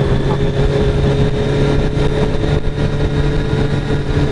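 Kawasaki Z900RS's inline-four engine, fitted with a K-Factory titanium full exhaust, running at a steady cruising speed with an even, unchanging note. Wind noise on the microphone runs under it.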